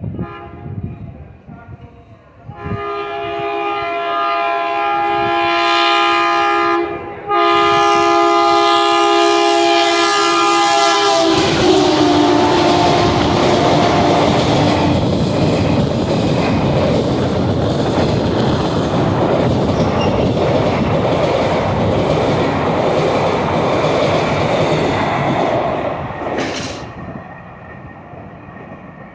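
Indian Railways locomotive horn sounding two long blasts as the train approaches, the second louder, then the train passing at speed with a loud, steady noise of wheels and coaches that fades near the end.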